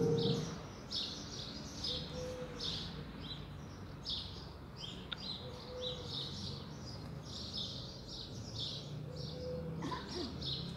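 Small birds chirping and twittering in a steady stream of short, high calls. In the first half-second the tail of a piece of music fades out beneath them.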